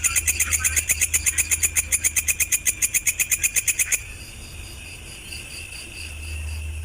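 A fast, buzzy trill of about a dozen even pulses a second, from the songbird-training mix of cricket, grasshopper and bird calls, which cuts off abruptly about four seconds in. A fainter steady high buzz with faint ticking follows it, over a low hum.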